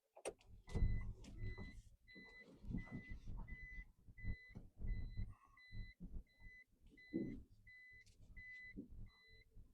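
A car's reversing warning beep, a high beep repeating just under twice a second, over the low rumble and knocks of the car moving slowly.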